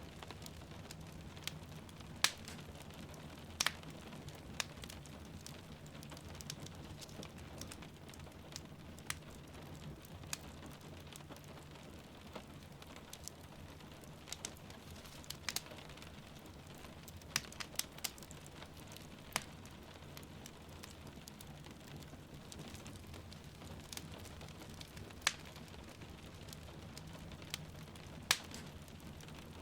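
Wood fire crackling in a fireplace, with sharp pops at irregular intervals over a steady hiss of rain falling.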